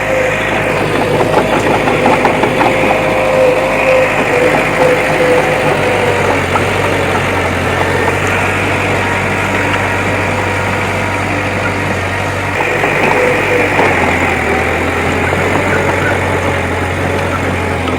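Heavy diesel earthmoving machinery engine running steadily and loudly, its engine note shifting slightly a few times.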